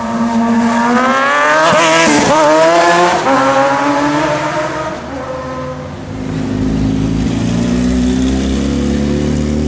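Sport motorcycle accelerating hard past, its engine pitch climbing and then dropping sharply as it goes by about two seconds in. From about six seconds another motorcycle's engine runs at lower revs, slowly rising.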